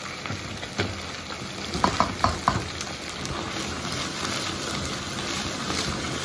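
Crucian carp, pork fat and aromatics sizzling steadily in oil in a wok, with a few quick clinks about two seconds in. Later the wok is shaken over the gas flame, moving the fish in the hot oil.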